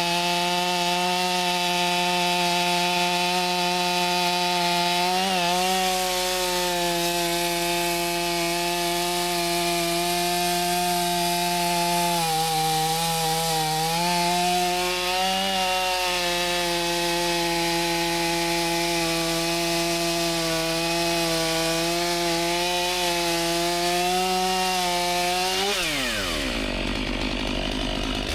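Chainsaw running at high revs, cutting through wood, its pitch dipping briefly a few times under load. Near the end the throttle is released and the revs fall steeply.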